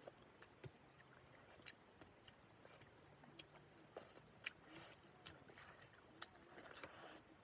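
Faint, wet mouth sounds of someone eating curry and rice by hand: soft chewing with scattered lip smacks and clicks.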